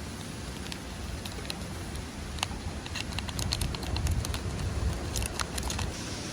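Steady rush of waterfall water, with a run of sharp clicks and taps from about a second in until near the end.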